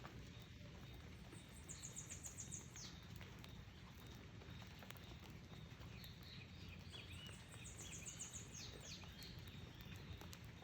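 A small songbird singing twice, a short fast high trill about a second in and again about seven seconds in, each ending in a few falling chirps. Faint chirps in between, over a low steady rumble.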